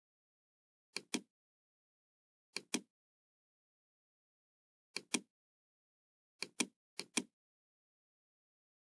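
Computer mouse button clicks, each a quick press-and-release pair, five times at uneven intervals over dead silence.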